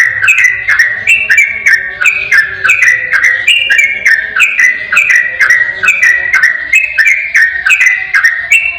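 Sooty-headed bulbul (trucukan) singing a fast, unbroken 'ropel' song. Clear whistled notes step downward in quick phrases, several a second, with no pause.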